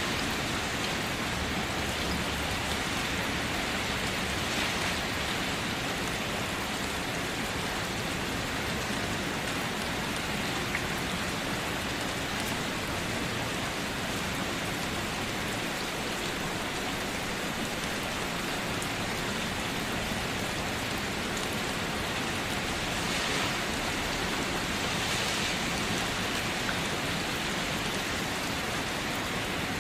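Steady rain falling, an even dense hiss that swells slightly a few times.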